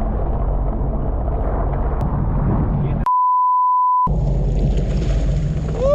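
A censor bleep, one steady pure tone lasting about a second, about three seconds in, with all other sound cut while it plays. Around it a jet ski's engine runs steadily under wind and water noise.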